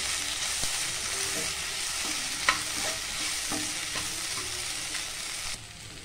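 Mutton, tomatoes and green chillies sizzling in oil in a nonstick kadai as they are sautéed, with a steel slotted spatula scraping and tapping the pan, one sharp tap about two and a half seconds in. The sizzling drops suddenly near the end.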